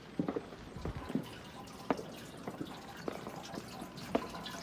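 Fireworks popping and cracking at irregular intervals, several sharp reports spread over a few seconds, the loudest about two seconds in and near the end.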